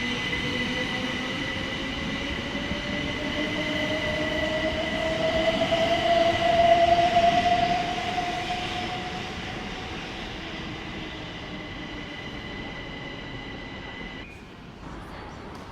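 Electric train pulling away with a whine that rises steadily in pitch as it gathers speed. It is loudest about seven seconds in and then fades. A steady high tone stops abruptly near the end.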